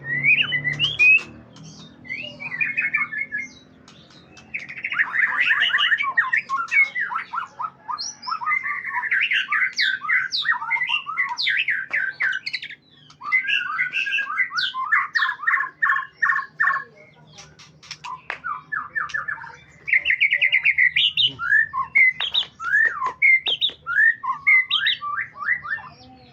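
A songbird singing a long, varied song of fast trills, chattering runs and sharp whistled notes, delivered in bursts with short pauses between them.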